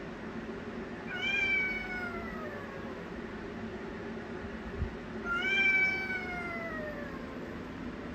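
A domestic cat meowing twice: two long, drawn-out meows, each falling in pitch, about four seconds apart.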